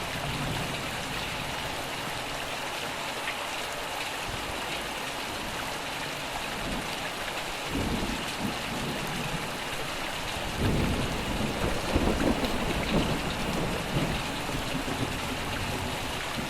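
Steady rain hissing down, with thunder rumbling low: a short rumble about eight seconds in and a longer rolling rumble from about ten to fourteen seconds.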